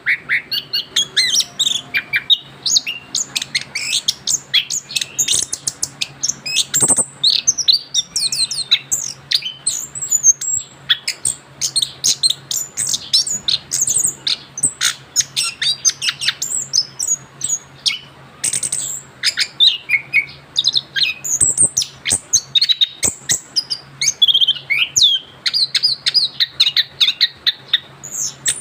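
Young male orange-headed thrush singing a continuous rolling song (ngerol), a rapid, unbroken stream of varied chirps and whistles. The bird has just come out of its moult.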